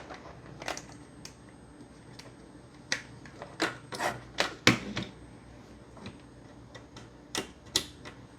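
Scattered sharp clicks and knocks, about a dozen and irregular, the loudest a little under five seconds in: power leads and connectors being handled and plugged back in on a workbench.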